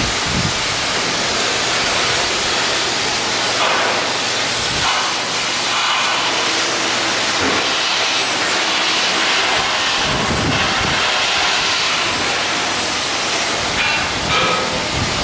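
A loud, steady hiss across the upper range, with a brief low rumble about ten seconds in.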